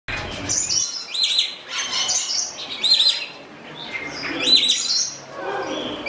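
Small birds chirping: a high, arched double note repeats every second or two, with shorter twitters in between.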